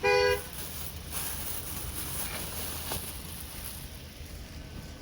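A car horn gives one short two-tone honk at the very start, the second of a pair about a second apart. After it comes a steady low outdoor rumble with wind.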